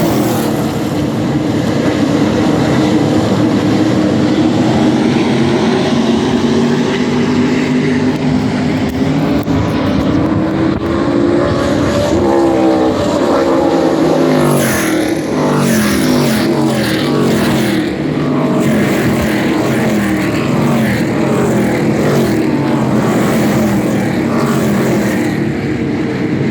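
A pack of NASCAR Craftsman Truck Series race trucks running past at speed, their V8 engines overlapping in a continuous loud drone, with pitches rising and falling as trucks go by.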